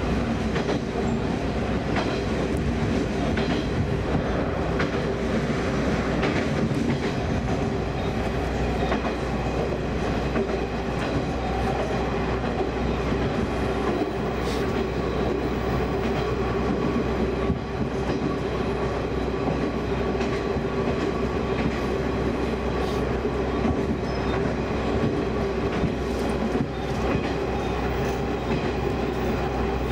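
Diesel railcar running along single track, heard from the driver's cab: a steady engine drone with a constant hum, over the rumble of wheels on the rails with faint scattered clicks.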